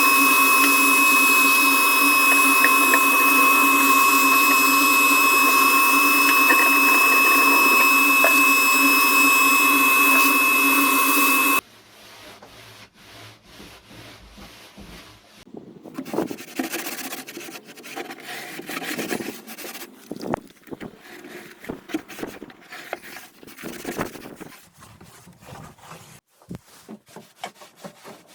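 A power tool runs steadily with a high, unchanging whine, then cuts off suddenly about twelve seconds in. After that, irregular, quieter strokes of a hand tool scrape and rub on wood.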